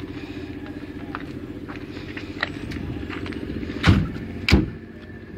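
An engine running steadily with an even hum, joined about four seconds in by two loud thumps half a second apart.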